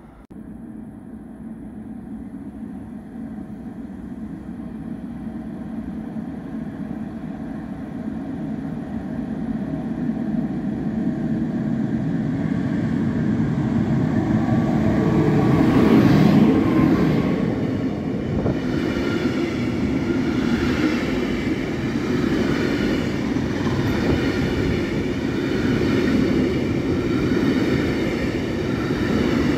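A train approaching and passing through the station. The rumble grows steadily louder to a peak about halfway through, then the cars keep rolling past in an even rumble.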